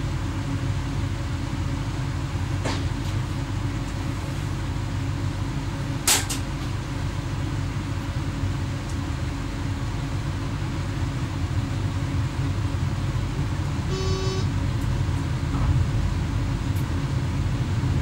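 Inside the driver's cab of an X11 electric multiple unit under way: steady low rumble of the running train. There is a sharp click about six seconds in and a short electronic beep around fourteen seconds in.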